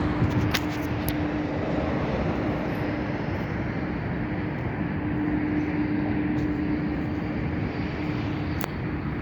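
Steady jet airliner noise with a constant low hum, broken by a few sharp clicks.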